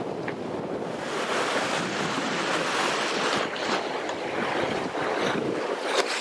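Open-ocean water rushing and splashing along the hull of a sailing yacht under way, rising and falling with the swell, with wind buffeting the microphone.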